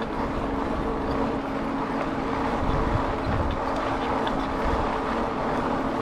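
Wind gusting on the microphone of a Rad Rover fat-tire e-bike being ridden, over a steady low hum from the bike in motion.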